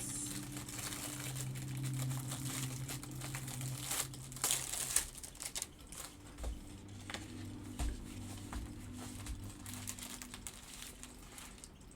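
Plastic packaging crinkling and crackling as it is handled and opened by hand, in irregular bursts, over a faint steady low hum.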